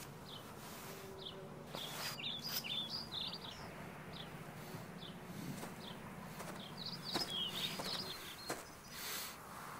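Birds chirping: short falling chirps repeated every half second or so, with two quicker flurries of notes, over a faint steady low background and a few sharp clicks.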